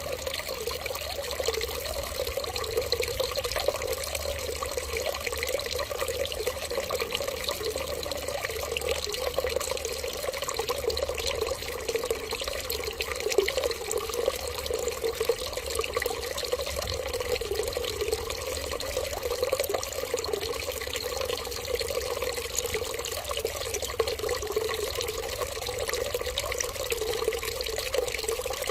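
Steady running water: one unbroken stream splashing evenly, with no pauses or change in level.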